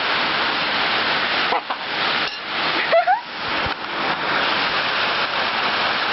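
Heavy rain pouring down, a steady loud hiss of downpour. Two short voice sounds cut through it, about one and a half seconds and three seconds in.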